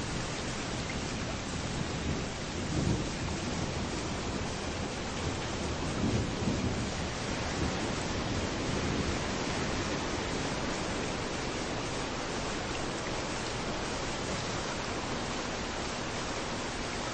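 Steady rain falling with waves rolling in on a beach, a constant hiss; two low swells rise about three and six seconds in.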